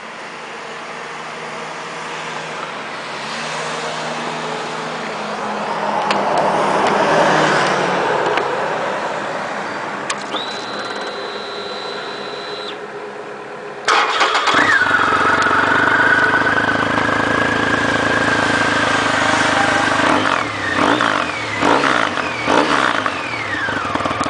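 Triumph Rocket III inline-triple engine running through a one-off hand-bent full exhaust. The sound swells and eases in the first half, jumps suddenly to a louder steady run about two-thirds in, then gives several quick throttle blips near the end.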